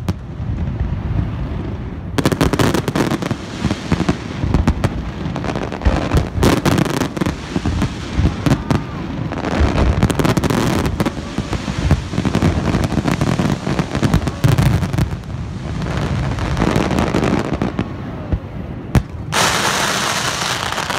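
Fireworks display: continuous volleys of sharp bangs and low thumps, with crackling between them. A loud hiss sets in near the end.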